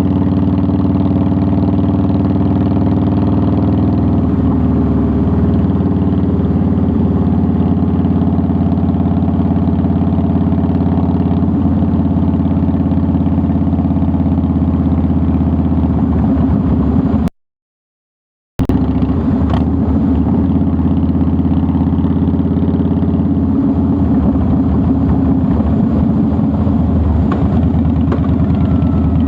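2009 Harley-Davidson Softail Deluxe's Twin Cam 96 V-twin engine running at a steady pace while riding. The sound cuts out completely for about a second just past the middle, then the engine resumes unchanged.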